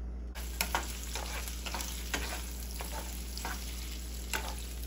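Diced Vienna sausages sizzling in a nonstick frying pan, with a plastic spatula scraping and tapping against the pan as it stirs them. The sizzle starts suddenly about a third of a second in.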